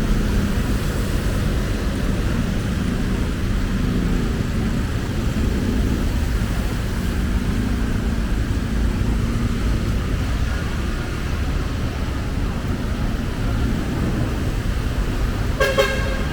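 Steady rumble of road traffic on a city street, with one short vehicle horn toot near the end.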